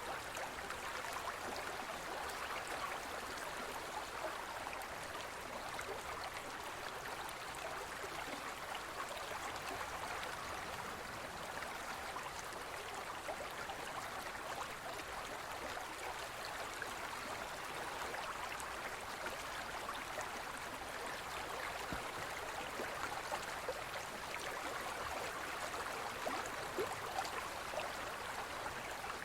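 Gentle forest stream flowing over stones: a steady babbling rush of water with small splashes and gurgles throughout.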